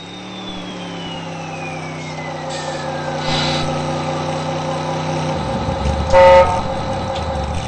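Heavy truck engine running steadily, with a high whine falling in pitch over the first five seconds; the engine sound then drops to a low rumble, and a single short, loud horn blast comes about six seconds in.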